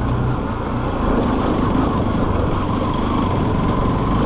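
Motorcycle running at a steady pace while being ridden, a steady engine and road rumble with no change in speed.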